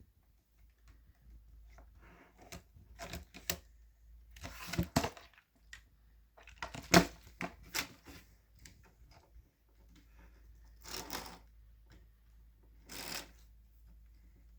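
Plastic parts of a Lego Technic model clicking and rattling as it is handled, with short rustling swishes between the clicks and one sharper click about halfway through.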